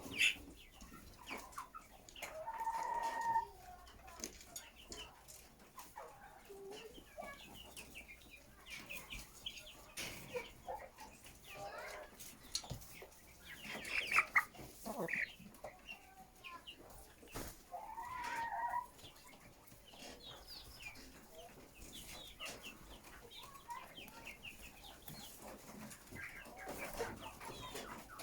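A flock of chickens clucking and calling, many short calls overlapping, with two longer drawn-out calls: one near the start and one a little past the middle.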